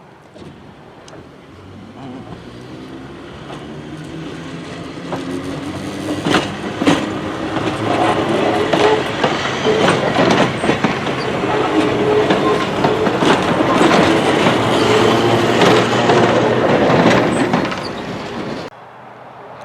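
A rail car approaching and running close by, growing steadily louder, its wheels clicking over rail joints under a changing whine. The sound cuts off suddenly about a second before the end.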